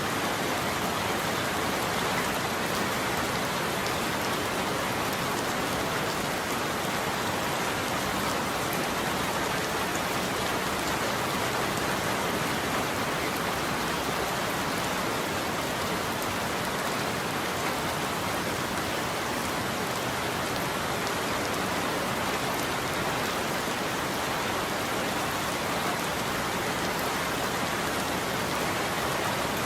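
Heavy rain falling in a steady, even hiss, with no break or change in level.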